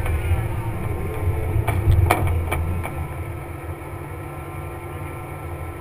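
Jeep Wrangler engine running, heard from the hood, with a few sharp knocks about two seconds in. It then settles lower and quieter.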